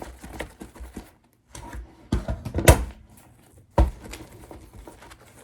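A thick stack of freshly printed pages being handled on a desk: rustling with several sharp knocks as the stack is set down and knocked against the surface, the loudest a little past the middle.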